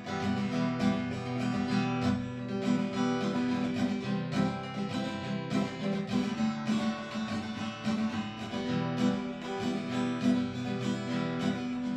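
Acoustic guitar strumming chords in a steady rhythm: the instrumental passage between verses of a song.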